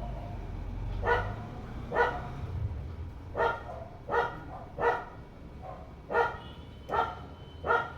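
Short, sharp animal calls repeated about eight times, roughly one a second, over a low rumble.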